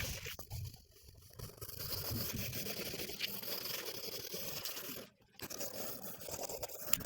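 A drawing tool scratching across paper in repeated strokes, with a short pause about five seconds in.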